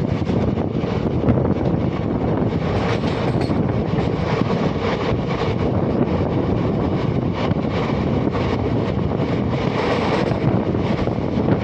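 Steady rumble of a passenger train running at speed, heard from an open coach door, with wind buffeting the microphone.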